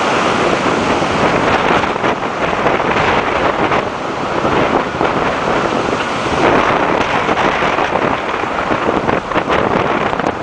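Strong storm wind gusting hard against the microphone: loud, unbroken rushing noise that rises and falls with the gusts.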